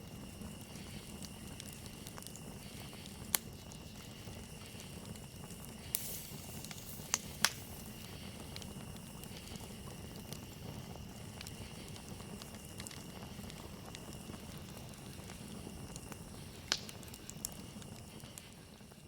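A campfire burning with a steady low rush and a handful of sharp pops and crackles, over the steady high chirring of crickets. Both fade down in the last second or so.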